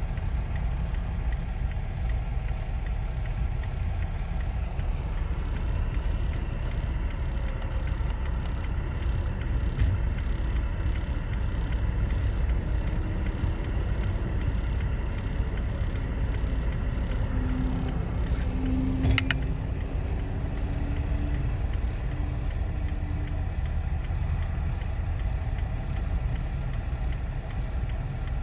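A road vehicle running steadily, a constant low engine and road rumble. A faint tone rises slightly in the middle, and a single sharp click comes about two-thirds of the way through.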